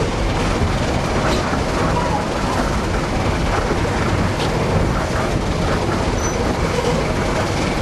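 Narrow-gauge steam train heard from an open passenger car: a steady rumble of the cars rolling over the track, with faint clicks from the wheels.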